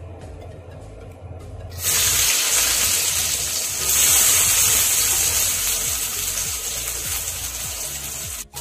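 Chopped shallots, garlic and whole spices tipped into hot oil in a steel wok, sizzling suddenly about two seconds in. The sizzle grows louder around four seconds, then slowly dies down.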